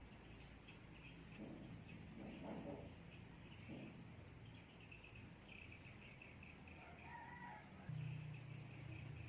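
Faint insect chirping, a steady pulsing high trill, with otherwise near silence.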